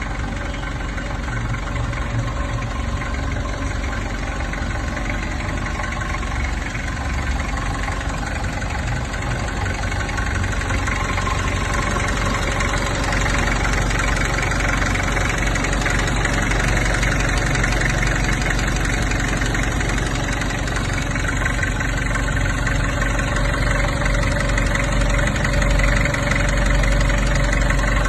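Isuzu C240 four-cylinder diesel engine of a 2.5-tonne forklift running steadily, getting a little louder in the second half.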